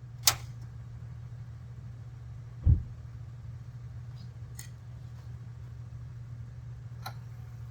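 Toyota FJ Cruiser's 4.0 L V6 idling with a steady low hum. A sharp click sounds just after the start and a heavy thump a little under three seconds in, with a couple of faint ticks later.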